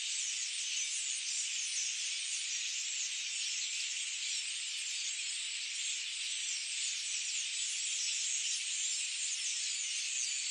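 Dense chorus of many birds singing at once, a steady high-pitched wash of overlapping short calls with no single song standing out.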